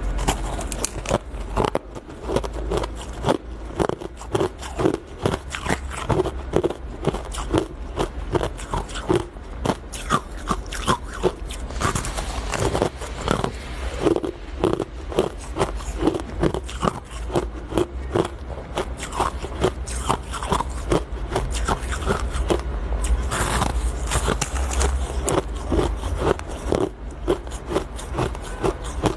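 Ice being bitten and crunched between the teeth, close to the microphone: a dense run of sharp, irregular crunches, several a second, with no pause.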